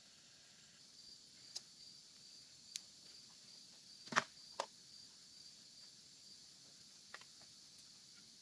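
A night insect chirping in an even, pulsing high rhythm over a steady hiss of insects. A few sharp clicks and knocks break in, the loudest about four seconds in.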